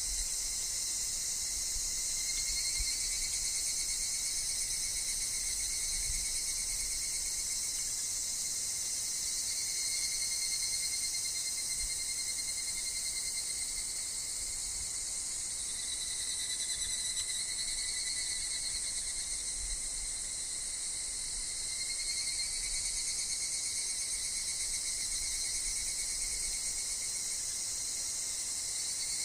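A steady, unbroken chorus of insects shrilling high and dense, with a couple of thinner, wavering tones woven through it, over a faint low rumble of wind.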